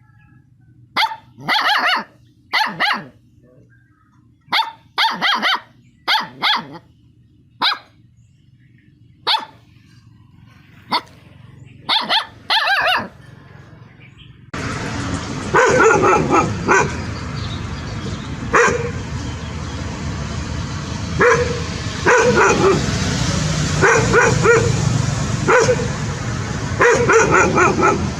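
A dog barking in short, separate barks over a quiet background. About halfway through, the sound switches abruptly to a noisier recording with a steady hiss, where more barks come in quick clusters.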